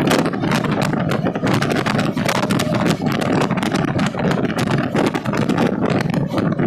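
Passenger train running, with dense rapid clattering and rattling of wheels and carriage over the track, over a steady low rumble.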